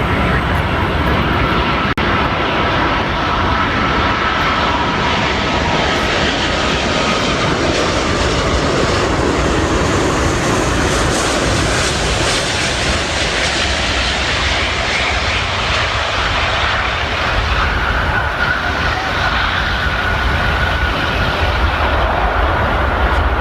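Four Rolls-Royce Trent 900 engines of an Airbus A380 on its landing, giving a steady jet roar with a deep rumble. A whine in the roar fades about seven seconds in, and a slightly higher whine comes in about seventeen seconds in.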